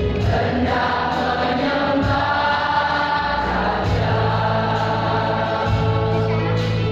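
Church choir singing a hymn, several voices sustaining notes together over held low tones.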